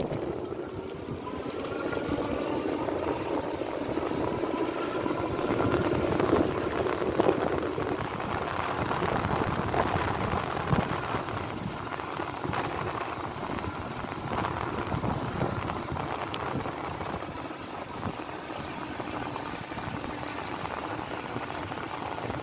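E-bike riding along: the electric motor whines and rises in pitch over the first few seconds as the bike speeds up, over steady wind noise on the microphone.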